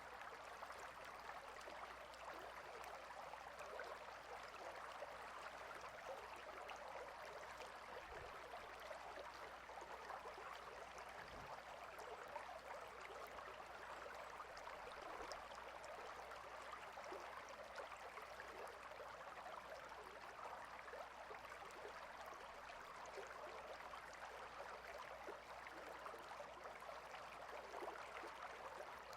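A stream of water flowing steadily, a constant soft rushing with no changes.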